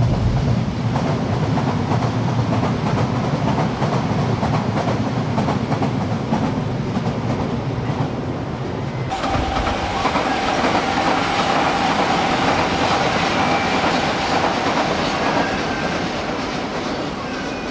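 Higashiyama Line subway train running on surface track, its wheels rumbling and clacking over the rails. About halfway through, the sound turns brighter and a steady whine sets in for several seconds.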